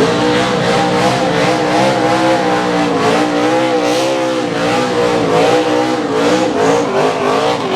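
NASCAR stock car V8 engine running at high revs, held near one pitch that wavers slightly up and down, starting suddenly.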